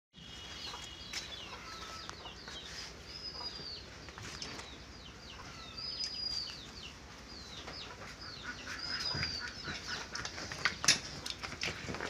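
Small birds chirping: a steady stream of short, high chirps, with a clear arched whistle repeated about every three seconds. A few sharp knocks come through, the loudest near the end.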